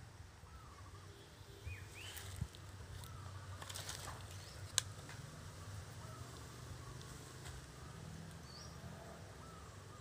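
Faint, scattered chirps of small wild birds in woodland, over a faint steady low hum. A few sharp clicks sound around the middle, the loudest just before halfway.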